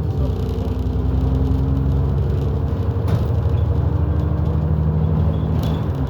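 London bus engine and drivetrain heard from inside the saloon while the bus is under way, running steadily over road noise. The engine note shifts about three seconds in and again near the end.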